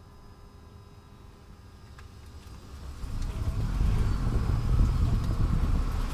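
Underbody road and tyre rumble of a 30-series Toyota Prius, picked up by a camera mounted under the car: faint at first, then a loud low rumble rises about three seconds in and holds.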